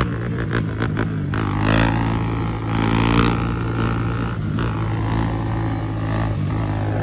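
Dirt bike engine running, a steady low drone with the pitch shifting a little around the middle.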